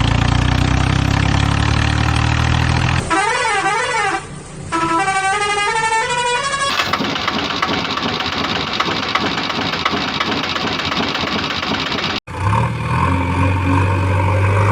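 Vehicle engine sound effects running steadily, broken up by a few seconds of a warbling, up-and-down horn-like tune, then a rough rattling noise. The sounds change abruptly as clips are spliced together, with a sharp cut about 12 seconds in before the engine sound resumes.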